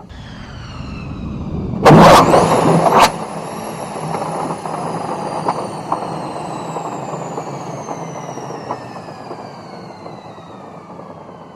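Fighter jet engine running, its high turbine whine falling steadily in pitch. A loud rushing burst about two seconds in lasts roughly a second.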